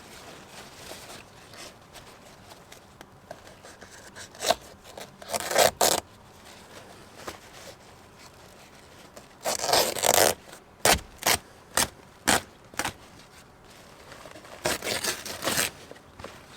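Hand work inside a car's interior during airbag removal: tools and trim being worked, giving intermittent scraping, rasping strokes. Some come as quick single strokes and some as bunched runs about a second long.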